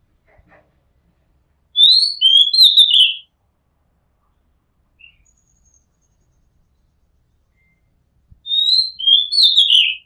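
Oriental magpie-robin singing: two short phrases of clear whistled notes, each about a second and a half long, the second repeating the first near the end.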